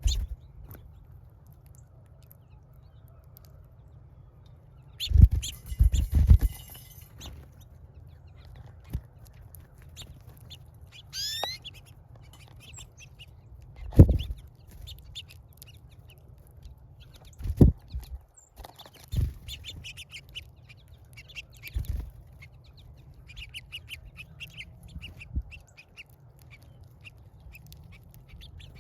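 Birds chirping and twittering in short high calls, with one rising whistled call about a third of the way in. Several dull knocks are heard among the calls, the loudest a cluster about five seconds in and a single knock about halfway through.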